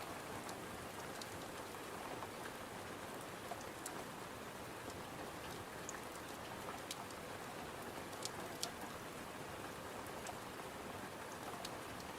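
Steady rain on a window mixed with a crackling fireplace: an even hiss throughout, with scattered sharp pops and ticks every second or so.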